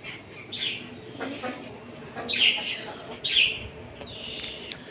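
Birds chirping: a handful of short, high calls a second or so apart.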